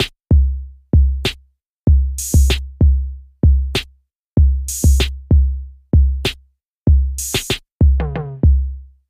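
Electronic background music: a sparse drum-machine beat of deep kick drums with a clap or snare hit every couple of seconds, and a short run of falling pitched notes near the end.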